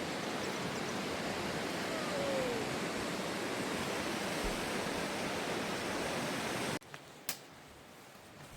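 Steady rushing of a river, which cuts off abruptly near the end to a much quieter background with a couple of light clicks.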